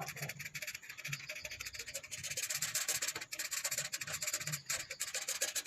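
Rapid back-and-forth scratching of a colouring tool on paper as an area is filled in with colour: a dense, fast run of rubbing strokes.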